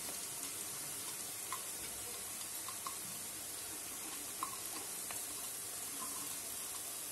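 Chopped garlic and onions frying in hot mustard oil in a karai: a steady, even sizzle, with a few light clicks of a metal spatula stirring.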